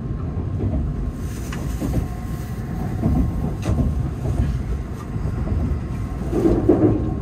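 Inside a Tokaido Shinkansen N700S passenger car, the train's running noise: a steady low rumble from the wheels on the track, with a few faint clicks. It swells briefly louder near the end.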